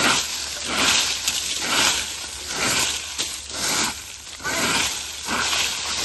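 Dry leaves being gathered into a pile, scraped along the ground in rhythmic strokes a little under one a second.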